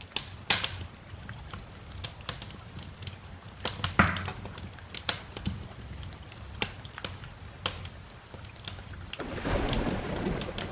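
Wood fire crackling in a fireplace, sharp irregular pops and snaps over a steady background of rain, with a low rumbling swell building near the end.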